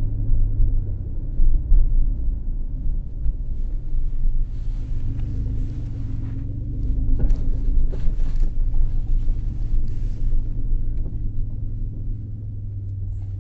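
2003 Ford Escape running on a test drive after a misfire repair: a steady low engine and road rumble.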